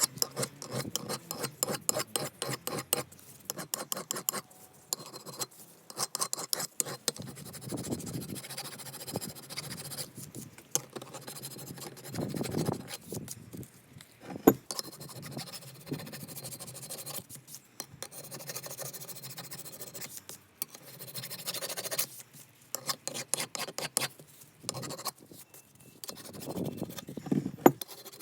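Hand scraping or rubbing on the metal of an old bench vice during its restoration: runs of quick back-and-forth strokes, with short pauses between runs.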